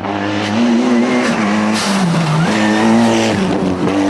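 Rally car engine running hard at high revs; the revs drop briefly about two seconds in and then climb again.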